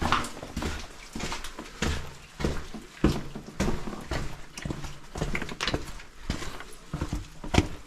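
Irregular footsteps and taps on a hard, stony path while walking, about one or two a second.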